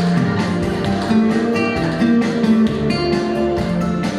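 Instrumental song passage led by guitar: strummed chords over a bass line that steps from note to note, with no singing.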